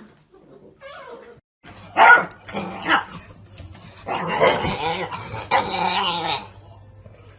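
A pet animal giving a series of drawn-out vocal calls, four of them, the longest in the middle, over a steady low hum that begins about two seconds in.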